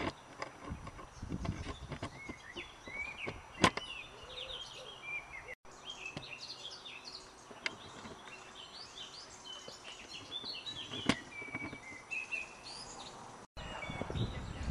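Wild birds chirping and singing, many short rising and falling calls, with two sharp clicks, one about four seconds in and one about eleven seconds in.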